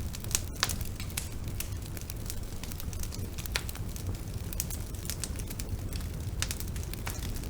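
Wood fire burning: a steady low rumble of flames, with sharp irregular crackles and pops from the burning wood.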